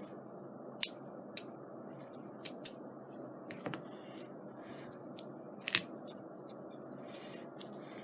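Small craft scissors snipping off excess material, a handful of short, sharp snips and clicks at irregular spacing over a steady low hiss.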